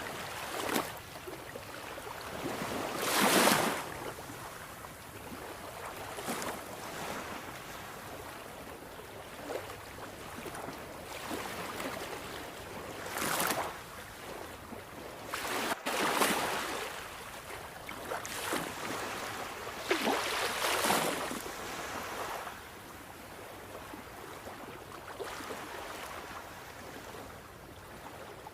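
Sea waves breaking and washing ashore: a steady rush of surf with louder breakers every few seconds, the loudest about three seconds in.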